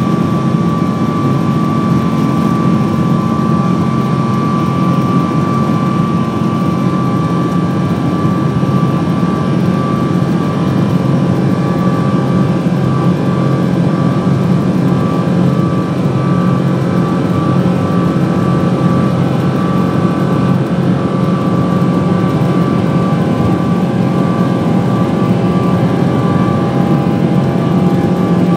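Boeing 777's jet engines and rushing air heard inside the passenger cabin during takeoff: a steady loud rumble with a constant high whine over it.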